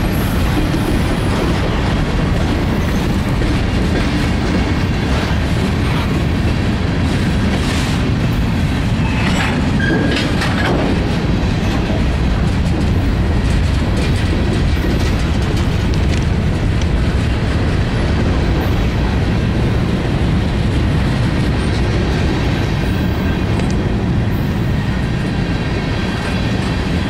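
Freight train cars, covered hoppers and then tank cars, rolling past close by: a steady rumble of steel wheels on rail with clickety-clack over the rail joints.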